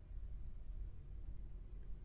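A pause with only a low, steady background rumble: room tone.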